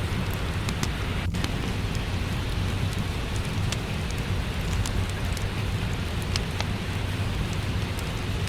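Steady rain falling, with a low rumble and frequent small crackles and pops from a wood fire in a fireplace.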